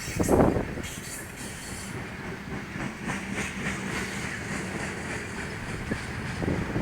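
A train passing on the BNSF main line: steady rumbling with a low hum and wheels clacking over the rail joints, with a loud thump about half a second in.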